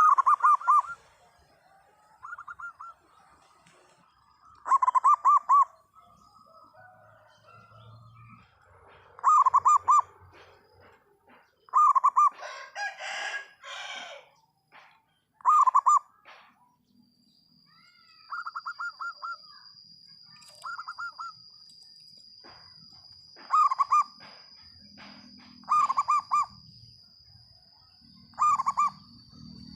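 Zebra dove (perkutut) cooing: short, rapidly pulsing coo phrases repeated every two to three seconds, some loud and some faint. A thin, steady high tone runs behind the later calls.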